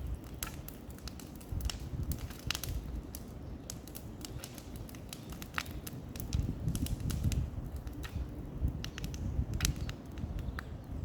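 Irregular crackling and snapping of dry wood and twigs over a low rumble.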